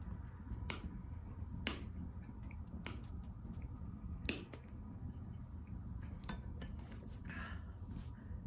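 Wood fire crackling in a home-made pail-can secondary-combustion fire pit: sharp, irregular pops about once a second over a steady low rumble of burning.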